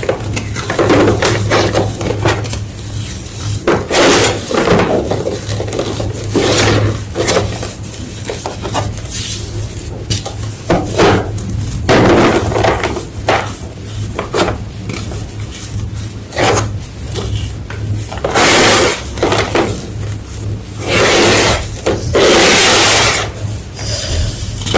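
A big slab of gym chalk being crunched and crumbled, giving irregular dry crunches with louder bursts every few seconds. A steady low hum runs underneath.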